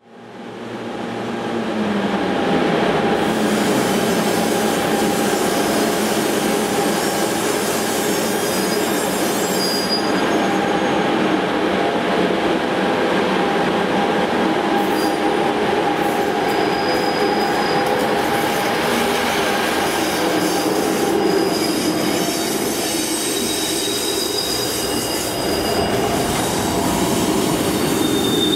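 Class 92 electric locomotive hauling a freight train of empty flat wagons past at close range: a loud, steady rumble of wheels on rail that builds over the first few seconds. Thin high wheel squeals come and go from about ten seconds in as the wagons run round the curve.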